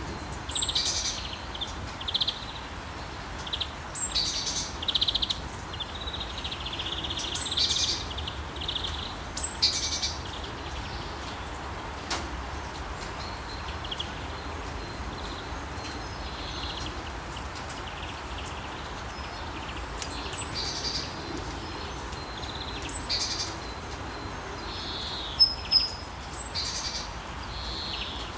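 Songbirds chirping and calling in short high bursts over a steady background hiss. The calls come thickly in the first third and again in the last third, with two sharp loud chirps near the end.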